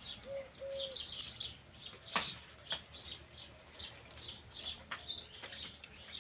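Small birds chirping repeatedly in short high calls, with one sharp click about two seconds in.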